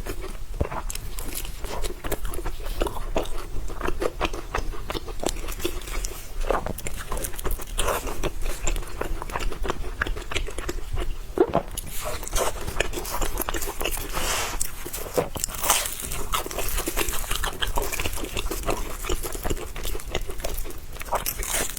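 Close-miked eating: a person chewing and biting food with many small wet crunches and mouth clicks, busier and louder about twelve to sixteen seconds in.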